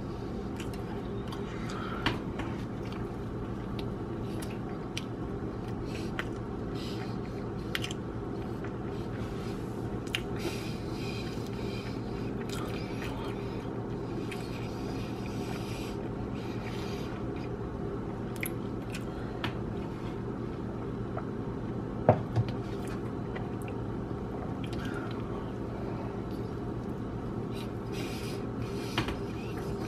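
Mouth sounds of eating a breaded chicken sandwich: chewing, with scattered small clicks and crunches, the sharpest about two seconds in and about two-thirds of the way through. They sit over a steady low hum.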